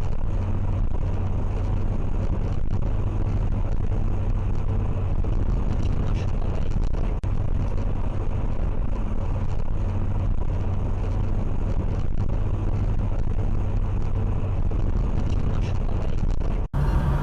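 Steady low rumble of a moving vehicle's engine and road noise, recorded by a dash cam, with a few faint clicks. It cuts off abruptly near the end into a different recording.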